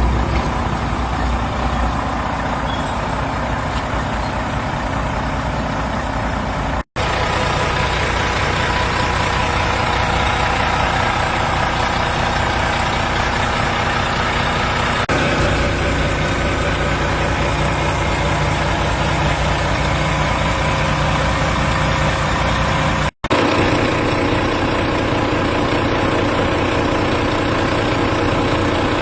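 Volvo FM 410's D11K six-cylinder diesel engine running steadily, broken twice by a brief dropout where clips are joined.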